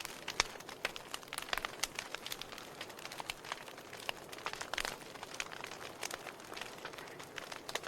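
Wood fire burning in a fireplace: irregular crackles and pops from the burning logs over a soft, steady hiss. The sharpest pops come just under half a second in and again a little before five seconds in.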